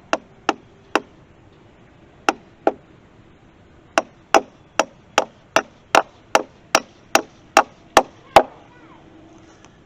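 Hammer driving nails into wooden fence boards: a few strikes, a short pause, two more, then a steady run of about a dozen blows at about two and a half a second, the last ones loudest.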